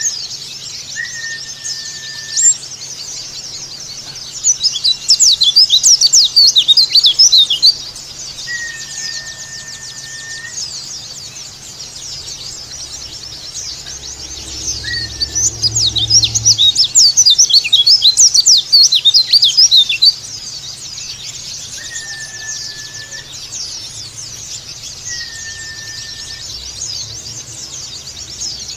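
Pleci (Zosterops white-eye) song: a rapid, high twittering of chirps and trills, loudest in two long bursts, about five seconds in and again from about fourteen to twenty seconds in. A flat, steady whistle repeats every two to three seconds throughout.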